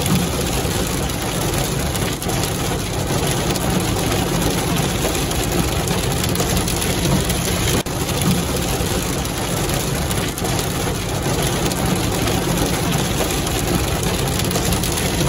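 Heavy rain pelting a vehicle's roof and windshield, heard from inside the cab as a loud, steady, dense drumming hiss.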